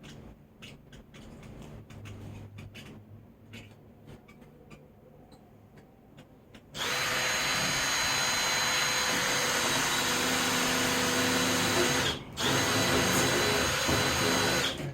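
A few light handling clicks, then about seven seconds in a power drill starts up and runs steadily at speed in the wood for about five seconds, stops briefly, and runs again for a couple more seconds.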